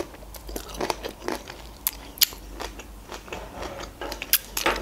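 Close-miked chewing of a mouthful of Korean-style julienned carrot salad: wet mouth and lip smacks with irregular crunchy clicks.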